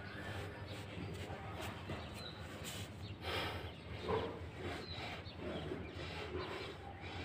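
Birds calling outdoors: a short high chirp every two to three seconds, over a steady low hum.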